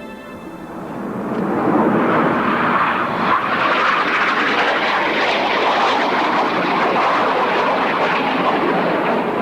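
Jet noise from a formation of Aermacchi MB-339 jet trainers flying past. It builds over the first two seconds and then holds loud and steady.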